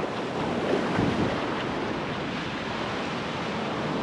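Ocean surf washing up on a sandy beach, with wind gusting across the microphone. It swells slightly about a second in.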